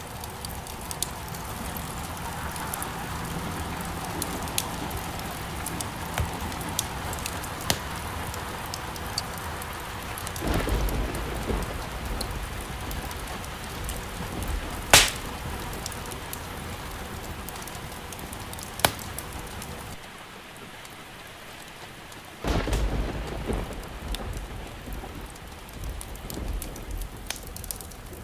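Steady rain mixed with a crackling wood fire, which gives off many small ticks and two sharp pops about 15 and 19 seconds in. Low rumbles of thunder break in suddenly twice, about ten seconds in and again past twenty seconds.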